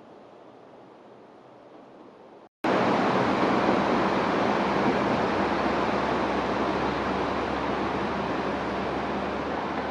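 A quieter steady rushing, then a cut about two and a half seconds in to a diesel railcar running close by: loud wheel-and-engine rushing with a steady low engine hum, slowly fading as it moves away.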